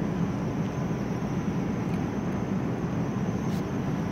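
Electric passenger train on the platform track, a steady low rumble of its running and rolling noise.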